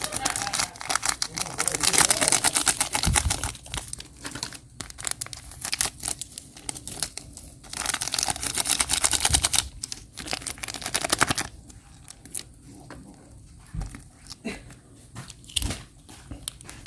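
Plastic instant-noodle packets crinkling and being torn open, in two loud spells of crackling. After about 11 s only scattered softer clicks and rustles remain.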